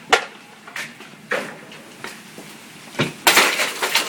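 Large hailstones striking hard surfaces: a few separate sharp cracks, then a dense flurry of hits about three seconds in.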